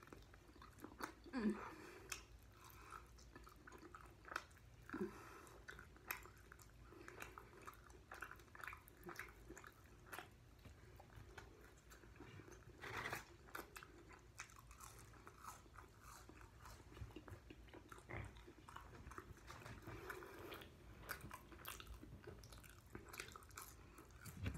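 Faint close-up chewing and biting of chicken wings: soft wet mouth clicks, smacks and crunches, with a couple of brief hums in the first few seconds.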